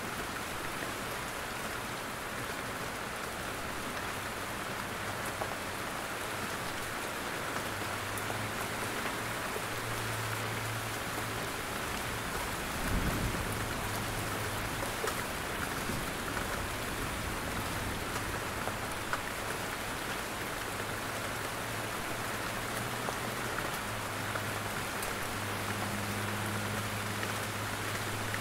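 Steady rain falling in a forest, with drops pattering down from the trees. A single low thump sounds about halfway through.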